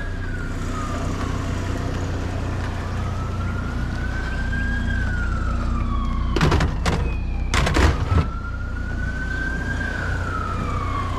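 Emergency-vehicle siren on a slow wail, its pitch rising and falling about every five seconds, over a steady low hum. A few sharp knocks come about six to eight seconds in.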